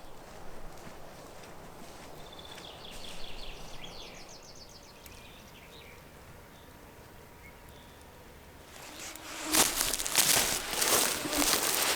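Quiet forest ambience with a short rapid trill of high repeated notes a few seconds in. About nine seconds in, loud close rustling and crunching starts and continues.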